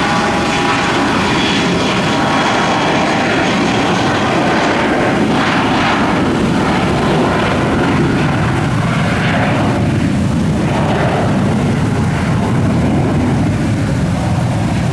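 Jet airliner engines, a loud steady rushing noise as the aircraft passes, with a high engine whine fading out at the start.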